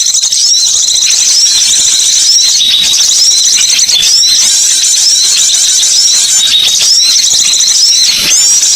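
Dense, unbroken high-pitched chatter of small songbirds, many short chirps and hooked notes tumbling over one another: a recorded bird-lure call.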